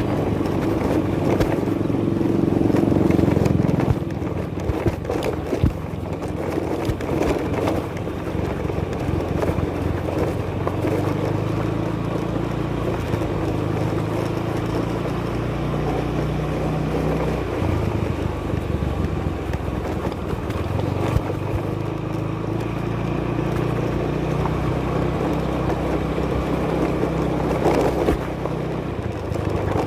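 Motorcycle engine running on the move, its pitch rising and falling with the throttle, over a steady rush of wind and road noise, with now and then a short knock.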